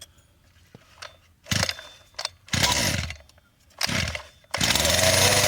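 Small 32cc two-stroke engine of a 1/5-scale Redcat Rampage MT being pull-started cold: several short pulls, then it catches about four and a half seconds in and runs steadily.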